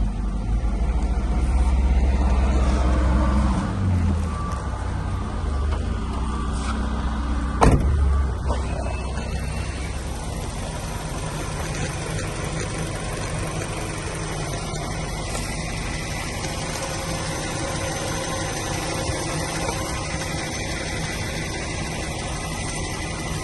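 Hyundai Coupe's 2.0-litre G4GC inline-four engine running on test: uneven and louder for the first eight seconds, with a sharp knock near eight seconds, then settling to a steady idle.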